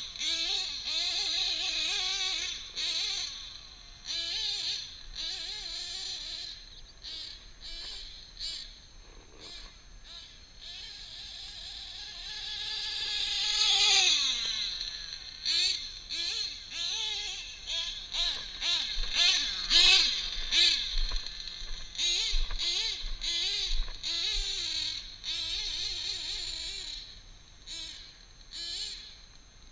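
Nitro RC truggy's Novarossi .28 two-stroke glow engine being driven, its pitch rising and falling constantly with the throttle. About 14 s in the truggy passes close, getting louder and then dropping steeply in pitch as it goes by. The engine is nearly new, with about three tanks through it.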